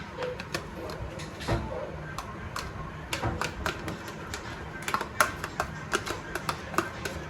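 A series of irregular taps and clicks, sparse at first and coming quicker from about five seconds in, some with a brief ring.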